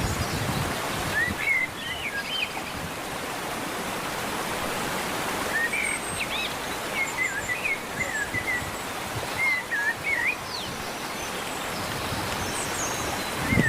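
Small birds chirping in short runs of quick rising and falling notes over a steady rushing background noise.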